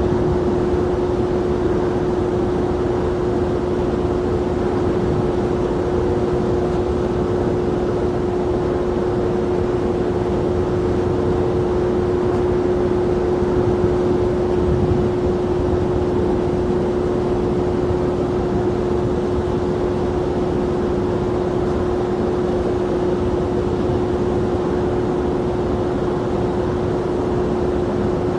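Jet aircraft engine noise at the airport, a steady hum carrying one constant tone that neither rises nor falls.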